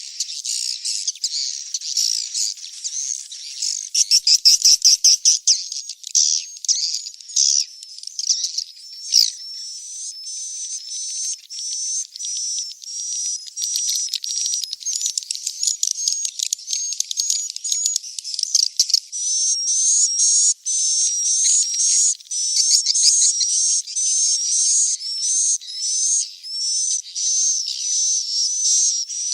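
Recorded swiftlet chick calls: a dense run of short, high chirps and twitters, with a quick loud rattle about four seconds in, then settling into evenly repeated chirps about three a second. It is a swiftlet lure call of the kind played to draw the birds to a nesting house.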